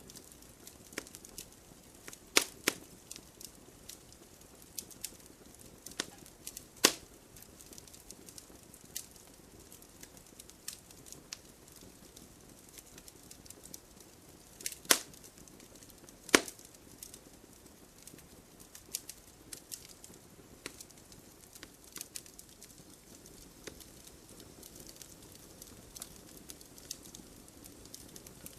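Wood fire crackling in a fireplace: irregular sharp pops and snaps of burning logs over a soft hiss, with a few louder pops standing out.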